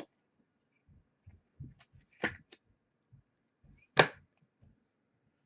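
Trading cards being handled on a table: soft low taps and knocks, with two brief crisp slaps of cards about two and four seconds in, the second the loudest.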